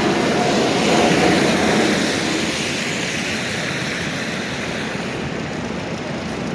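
Street traffic with a large vehicle passing, swelling to its loudest about a second in and then slowly fading.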